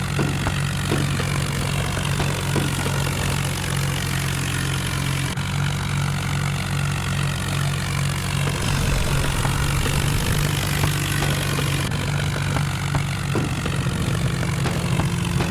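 Tractor diesel engine idling steadily, with a low, even hum.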